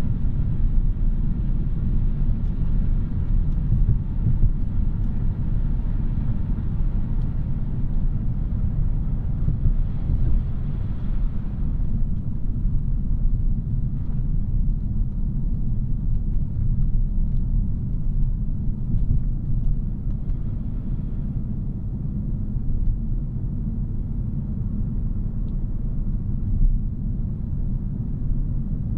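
2017 Audi A3's 2.0-litre turbocharged four-cylinder and its tyres while driving: a steady low road rumble. A higher hiss over it fades out about twelve seconds in.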